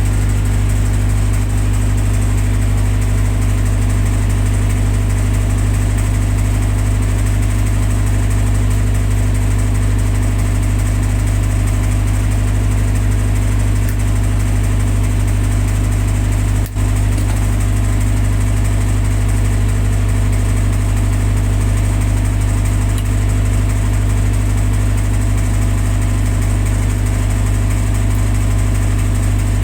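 Generator set's engine running steadily at a constant speed, with a brief dropout about 17 seconds in.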